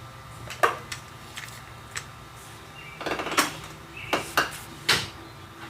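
Small 1:64 die-cast toy trucks being handled and set down on a hard surface, giving a series of sharp clicks and clacks, most of them in the second half.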